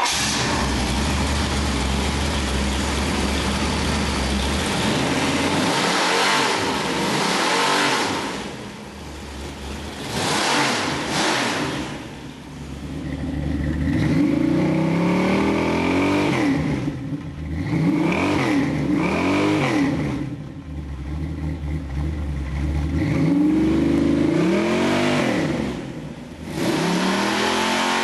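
Ford 514 cubic inch big-block stroker V8 crate engine running on stock exhaust manifolds. It runs steadily for several seconds, then is revved up and let back down again and again, its pitch rising and falling with each blip.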